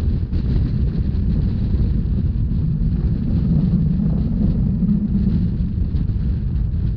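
Wind buffeting the microphone over the low, steady rumble of a narrow-gauge Rhaetian Railway train running along the line. A low hum swells about three seconds in and fades again a couple of seconds later.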